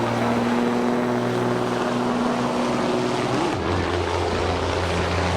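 A semi truck's diesel engine runs loud and steady at high revs. Its pitch drops suddenly about three and a half seconds in.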